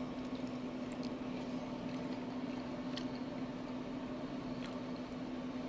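A man chewing a bite of smoked chicken drumstick: faint mouth sounds with a few soft clicks, over a steady low background hum.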